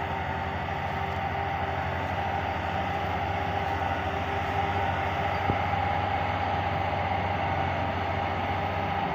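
Tractor engine running steadily, with a fast, even firing beat and a steady whine above it, as it pulls a sugarcane trolley. One sharp knock about five and a half seconds in.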